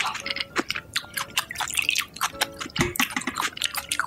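Close-up eating sounds: wet chewing with rapid, irregular mouth clicks and smacks.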